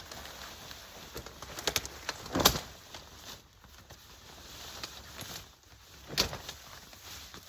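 A pop-up hunting blind being set up: fabric rustling and shifting, with a few sharp snaps, the loudest about two and a half seconds in and another about six seconds in.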